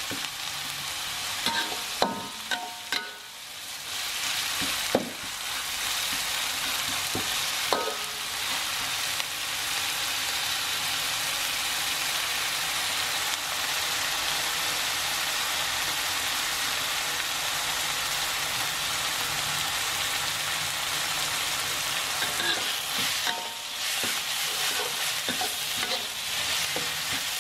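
Ground spice paste sizzling in oil in a wok, with a metal spatula scraping and knocking against the pan a few times in the first eight seconds and again near the end. In between the sizzle runs steadily. The paste is being fried until it dries out and starts to brown.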